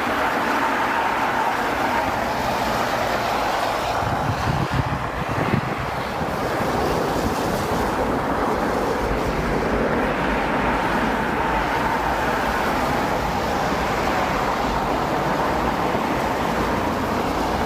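Boeing 737 jet engines at takeoff power on a departure roll, a steady broad rushing noise heard from a distance.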